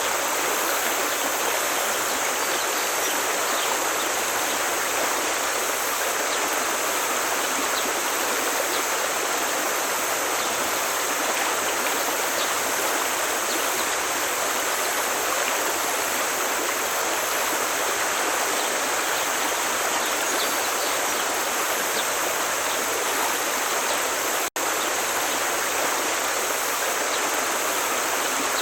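Forest stream flowing, a steady rushing of water. The sound drops out for an instant near the end.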